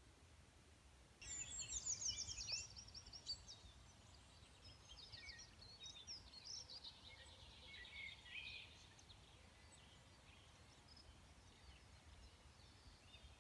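Small birds singing, faint: quick high chirps and trills start about a second in and thin out in the second half.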